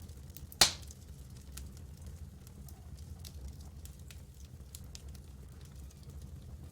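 Wood campfire crackling, with scattered small snaps and one loud, sharp pop a little over half a second in, over a steady low rumble.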